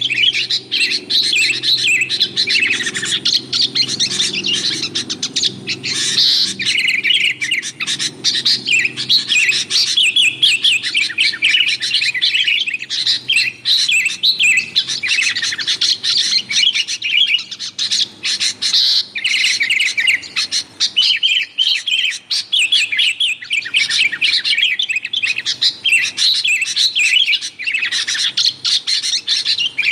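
Sooty-headed bulbuls (kutilang) in busy, rowdy chatter: an unbroken stream of rapid, bubbly chirps and short whistled phrases.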